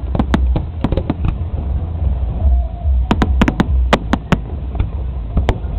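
Fireworks going off: quick runs of sharp bangs and crackles, one burst of them in the first second and a half and another starting about three seconds in, over a constant low rumble.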